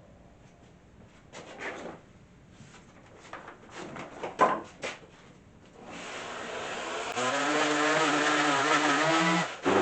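A few knocks and clicks of handling, then about six seconds in an electric power sander starts up and runs with a steady motor hum, dipping briefly just before the end.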